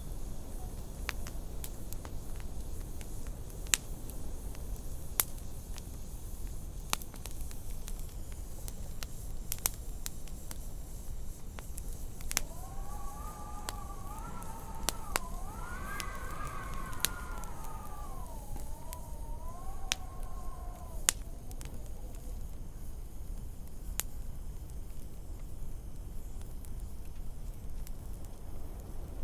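Wood fire crackling with scattered sharp pops over a steady low rumble. From about twelve seconds in, a wavering wind howl rises and falls for roughly nine seconds, then fades.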